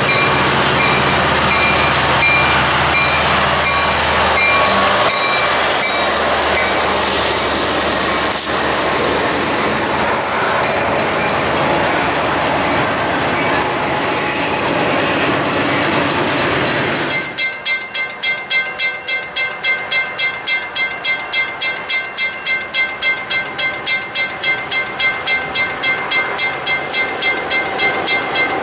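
A freight train led by diesel locomotives, a Norfolk Southern SD80MAC and a CN C40-8M, passes close by, then its covered hoppers and boxcars roll past with steady wheel-on-rail noise. About two-thirds of the way through, the sound switches abruptly to a grade-crossing bell ringing rapidly, about three to four strokes a second.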